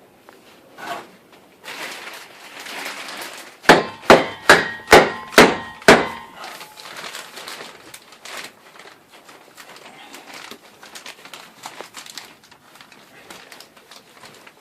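Six quick hammer strikes on wood, each with a short ring, after a brief scraping noise.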